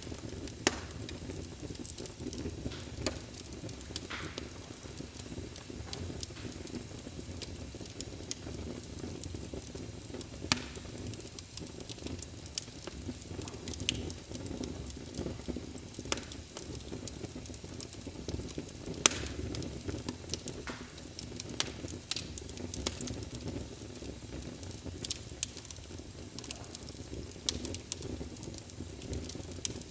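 Wood fire burning in a fireplace: a steady low rustle of flames with frequent small crackles and occasional sharper pops, the loudest about half a second in, ten seconds in and nineteen seconds in.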